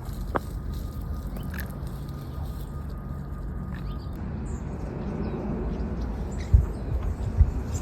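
Outdoor trail ambience: a steady low wind rumble on the microphone with a few faint, short bird calls. Two sharp low thumps come near the end.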